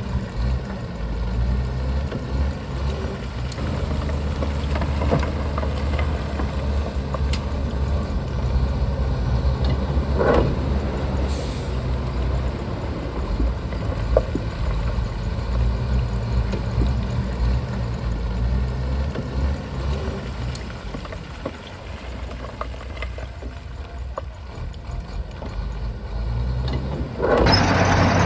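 Shantui bulldozer's diesel engine running steadily, with scattered knocks and clanks. There is a brief louder burst about ten seconds in, and near the end the sound turns abruptly louder and noisier.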